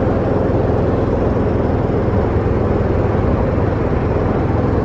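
Boat engine running steadily at an even speed, strongest in the low range.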